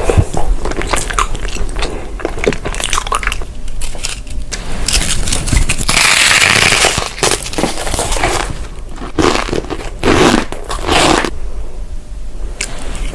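A person biting and chewing crunchy food, eating samgyupsal (Korean grilled pork belly): irregular crisp crunches, with a longer, louder stretch of crunching about six seconds in.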